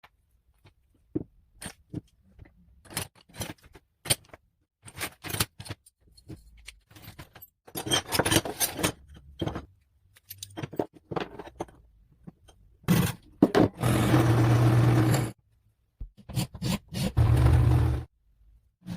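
24-volt electric solenoid engine: scattered clicks and knocks at first, then running in short spells, a fast, loud buzzing clatter with a steady low hum for about two seconds past the middle and again briefly near the end.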